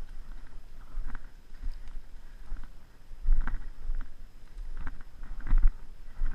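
Slow, irregular crunching and rustling of footsteps moving through woodland leaf litter and undergrowth, over a low rumble of wind and handling on a body-worn action camera's microphone.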